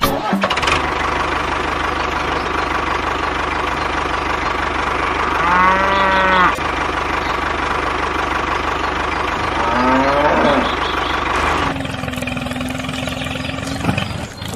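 A cow moos twice over a steady tractor engine running: first one long flat moo, then a shorter one that rises in pitch. Near the end the engine noise changes to a steadier, higher hum.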